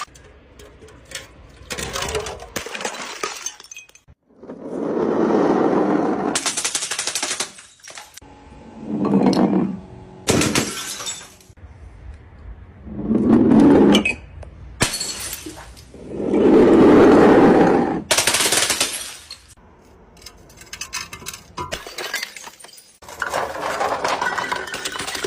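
Glass bottles smashing and shattering one after another, about six or seven separate breaks, some with a long crash and others a short bright crack with tinkling shards.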